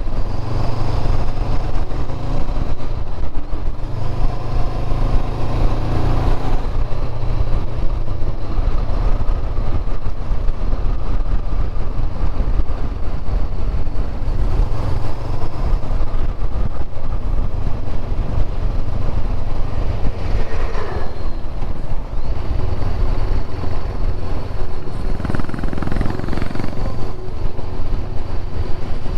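Motorcycle engine running steadily on the road, a continuous low rumble with rushing noise over it.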